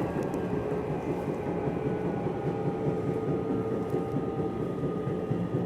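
Running noise inside a Nishitetsu electric commuter train at a steady speed: a continuous rumble of wheels on track, with a faint, even whine from the traction motors.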